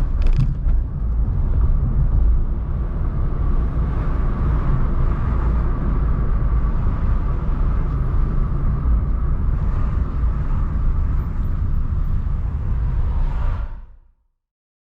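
Car driving through town: steady low rumble of engine and tyre noise with a faint steady hum above it, and a brief clatter just after the start. It fades out quickly near the end into silence.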